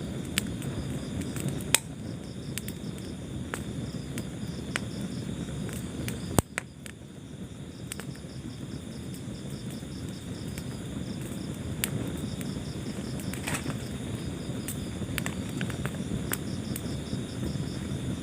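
Wood fire crackling in a fireplace over a low steady rumble, with scattered small clicks and two loud sharp pops in the first half. A high, evenly pulsing chirp, like a cricket, runs underneath.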